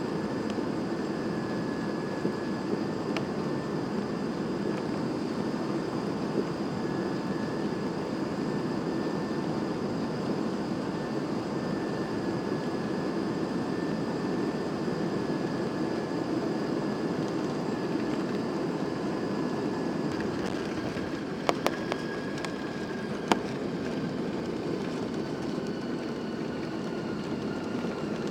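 Cabin noise inside a Boeing 737-800: a steady roar with the high whine of its CFM56 turbofan engines. The whine drifts slightly lower about twenty seconds in, when a few sharp clicks sound.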